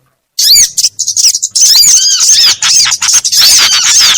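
Bird-luring (pikat) recording of several small birds' calls layered together: loud, shrill, overlapping chirps and arched squeaky notes. They start after a moment of silence, come in scattered bursts, then run on without a break from about a second and a half in.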